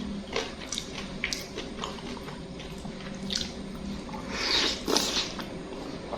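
A man eating instant curry noodles close to the microphone: wet chewing with small mouth clicks and smacks, and a louder, longer noise about four and a half seconds in.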